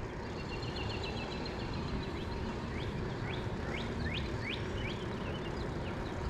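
Songbird singing: a quick run of repeated notes, then a string of short sweeping whistles, over a steady low background of outdoor noise.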